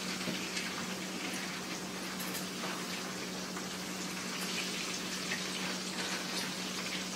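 Breaded chicken pieces frying in oil in a skillet: a steady sizzle with small crackles and spatters, over a steady low hum.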